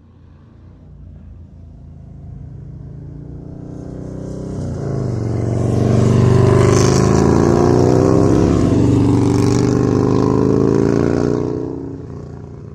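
Keeway Superlight 200cc motorcycle engine running and revving. It builds up in loudness over the first half, stays loud with its pitch shifting up and down for about five seconds, then falls away near the end.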